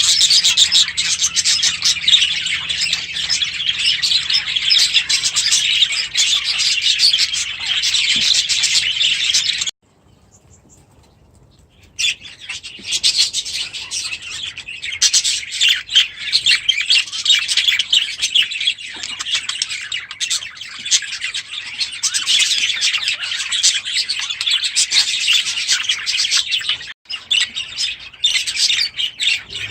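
A flock of small aviary birds chirping and chattering in a dense, continuous chorus. It breaks off almost completely for about two seconds around a third of the way in, then resumes.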